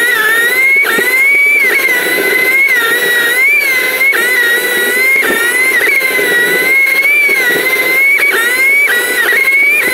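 Honda CBR600RR's inline-four engine running at high revs, its whine rising and dipping repeatedly with throttle and gear changes, over rushing wind.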